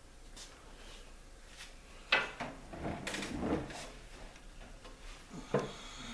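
Sheet-metal microwave cover and screws being handled while the cover is screwed back on: a sharp metallic click about two seconds in, a couple of seconds of light clattering, then another click near the end.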